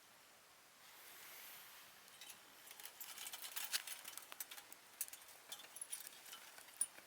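A soft rustle, then a run of small, sharp, irregular clicks and crackles.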